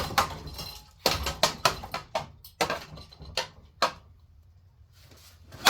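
Ceiling fan blades being struck: a quick irregular run of sharp, hard knocks and clatters, about ten in the first four seconds, then a pause and another loud hit right at the end.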